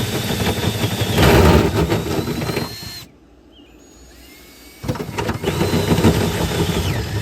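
Power drill with a hole saw cutting an access hole through the car's body metal, running in two spells with a lull of about two seconds between them. The motor's whine climbs in pitch just before each stop.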